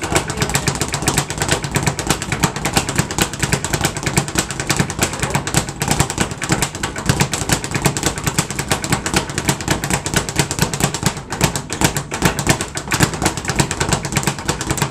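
Speed bag being hit in a fast, unbroken rhythm, the bag rattling off its rebound platform many times a second.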